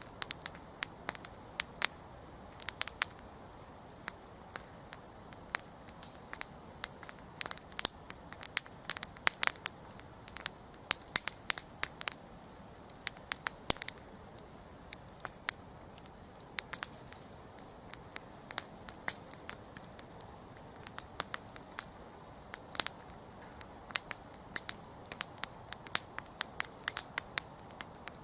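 Wood campfire crackling and popping: irregular sharp snaps over a steady low hiss of flame.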